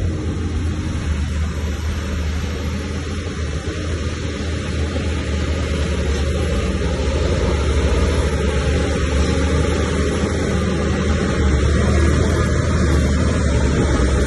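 Heavy diesel engine of an earthmoving machine running steadily under load, a deep low hum with dense mechanical noise over it, growing slightly louder about halfway through.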